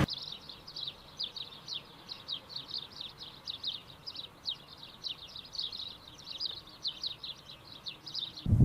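A small bird chirping in a quick, steady run of short downward-sliding notes, about four or five a second, over a faint background hiss.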